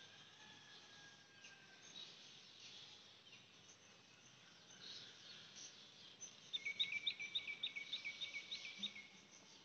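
Quiet outdoor ambience with faint scattered bird calls, then about two-thirds of the way through a rapid run of high chirps, about eight a second for a little over two seconds, from a bird.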